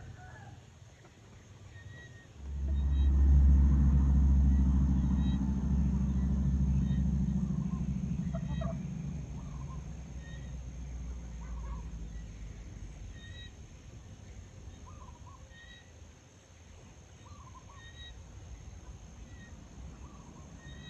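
Domestic chickens clucking, with short high chirps repeating about once a second. A loud low rumble comes in about two seconds in and fades away over the next several seconds.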